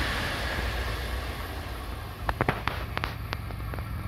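DB ICE 1 high-speed train passing through without stopping and drawing away, its steady rushing noise fading. A cluster of sharp clicks comes a little past halfway.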